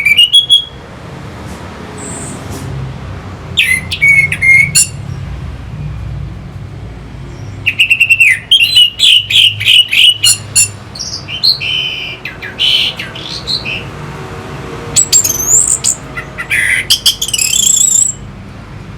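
Orange-headed thrush singing loud, rapid whistled phrases with sliding notes, in four bursts separated by short pauses, over a steady low rumble.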